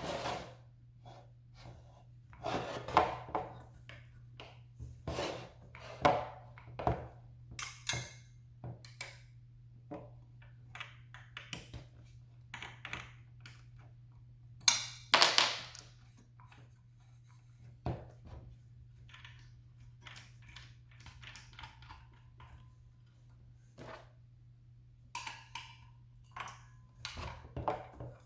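Objects being handled: irregular knocks, clicks and clatter, with louder knocks about three seconds and fifteen seconds in, over a steady low hum.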